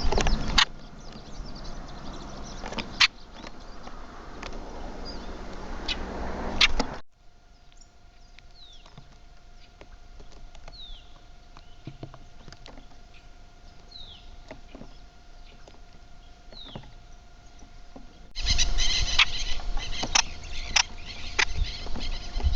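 Backyard birds chirping, with short falling chirps repeating every couple of seconds in a quieter middle stretch, over a steady hum. The sound changes abruptly about 7 seconds in and again about 18 seconds in, with sharp clicks in the louder first part.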